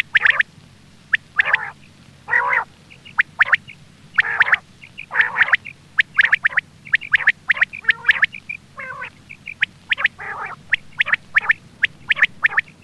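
Quail calling over and over for use as a hunting lure: short clusters of quick, harsh notes follow one another about every half second to a second.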